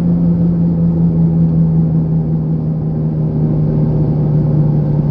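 A car driving: steady engine and road rumble with a strong low hum that sinks slightly in pitch.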